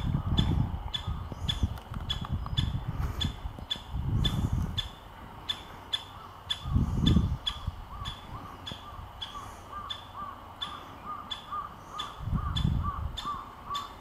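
Birds calling: a steady run of sharp, evenly repeated notes about two or three a second, joined about halfway through by a lower, rapidly repeated call. A few low rumbles come and go.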